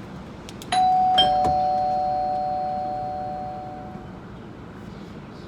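A two-note ding-dong chime, higher note then lower: the first note sounds about a second in and the second half a second later, and both ring and slowly fade over about three seconds.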